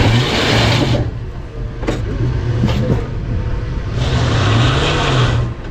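Off-road 4x4's engine running under load as the driver gives it throttle to climb over a boulder. Twice, first in the opening second and again from about four seconds in, comes a loud surge of rushing noise, the tyres spinning in loose sand, with a few knocks between the surges.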